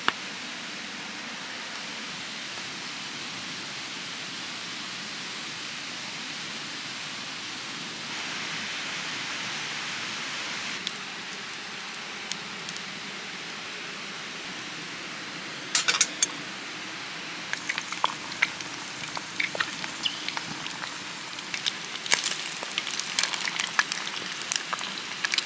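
Steady rush of a mountain stream. About two-thirds of the way in, a wood campfire starts to crackle with sharp pops, and the pops come more often towards the end.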